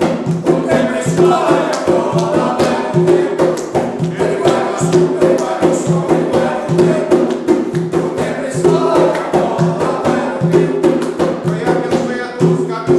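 Voices singing a chant together over a steady, fast percussion rhythm.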